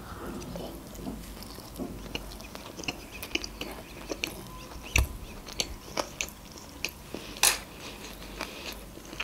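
Close-miked chewing of a mouthful of sushi roll: soft, wet mouth clicks and smacks. Two louder clicks come about five and seven and a half seconds in.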